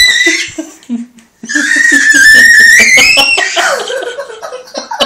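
A boy screaming in a panic at a pet budgie: a long, high scream about a second and a half in, with laughter and voices around it.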